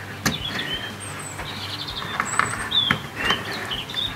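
Small birds chirping and whistling in the background, short high calls some of which glide down. A couple of sharp clicks, about a third of a second in and near three seconds, come from handling the plastic connectors of the LED panels' power cables.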